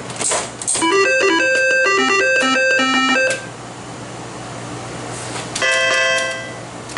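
IGT S2000 slot machine's electronic game sounds during play: two quick whooshes, then about two and a half seconds of rapid stepping electronic beeps in a melody, and after a pause a short bright chime near the end. A low steady hum runs underneath.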